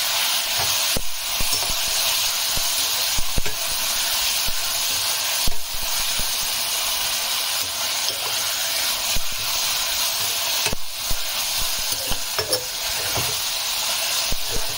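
Onions, tomatoes and cashews sizzling steadily in hot oil in a kadai over a medium flame. A metal spoon stirs them, with occasional knocks and scrapes against the pan.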